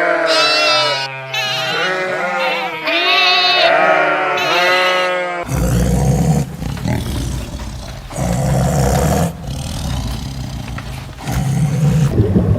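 Livestock bleating: several long, wavering bleats in quick succession, ending abruptly about five seconds in. A low, uneven rumbling noise follows.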